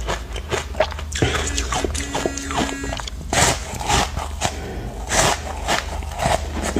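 Chunks of ice dusted with matcha powder being bitten and crunched, with repeated sharp cracks and chewing. A short steady tone, like a musical note, sounds briefly about two seconds in.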